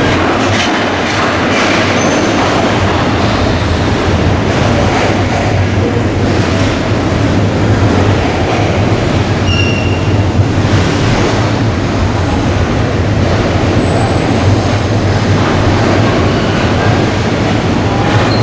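Freight train of cement tank wagons rolling steadily past, steel wheels running on the rails, with a few brief high wheel squeals.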